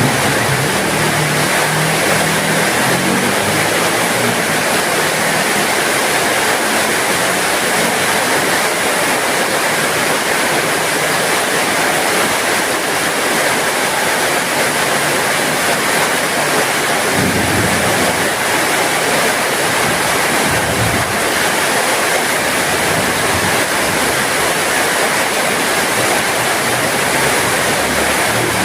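Heavy rain falling steadily, a dense even hiss with no letting up.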